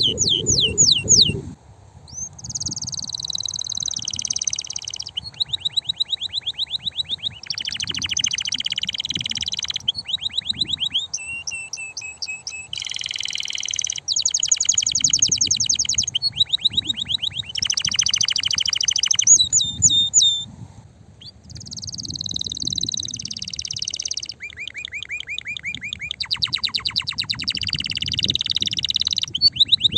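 Domestic canary singing a long, loud song of fast trills, each phrase a rapid run of repeated high notes, switching to a new trill every second or two with a brief break about two-thirds of the way through.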